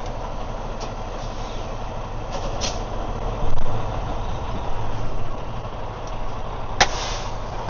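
Semi truck's diesel engine running as the tractor pulls its trailer forward a short way, with a steady low rumble that swells briefly midway. Near the end comes a sharp, short hiss of air, typical of the air brakes being applied as the rig stops.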